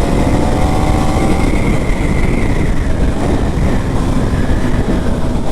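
KTM Duke 390 single-cylinder engine running under way, over a steady low rumble of road and wind noise. Its engine note shows plainly for about the first second and a half, then sinks into the rumble.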